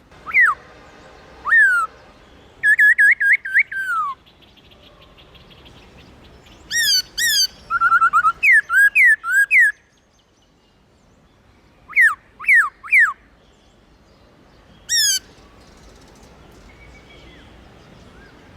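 Black-throated laughingthrush singing loud, clear whistled notes that slur downward, delivered in short phrases of one to several quick notes with pauses between them, including a rapid run about three seconds in and a short trill about eight seconds in.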